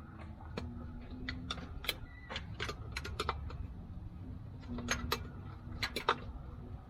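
Scattered light clicks and taps, irregularly spaced, over a low steady rumble.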